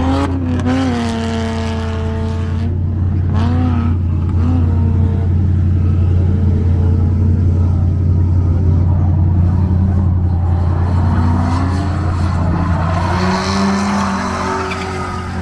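A drift car's engine revving up and down as the car is driven through a run, over a steady low drone. A rush of tyre noise comes near the end.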